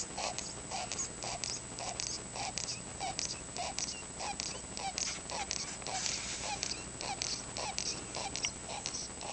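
A sick cockatiel's laboured breathing, a short squeaky wheeze with a crackle about twice a second, steady and unbroken. The wheezing is a sign of the respiratory illness the bird is dying of.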